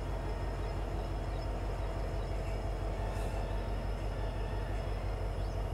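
Steady low rumble and hum of a passenger train hauled by a WDP-4 diesel locomotive, heard from aboard.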